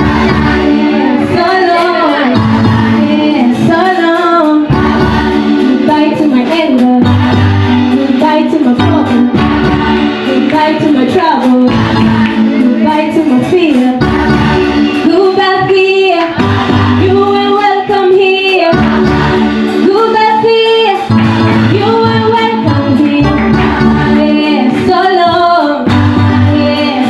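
A group of singers, mostly women's voices, performing a gospel song over accompaniment with a steady bass beat.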